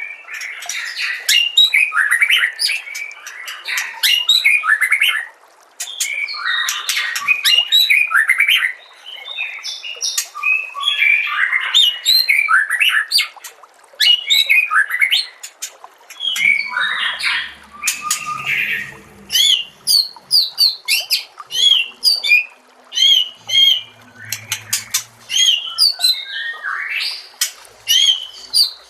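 Songbird singing a fast, varied stream of chirps, trills and rapid repeated notes, with brief pauses, from a masteran bird-song training recording.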